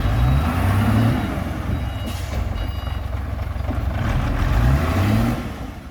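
Truck engine revving, rising in pitch twice, with short reversing beeps about two seconds in.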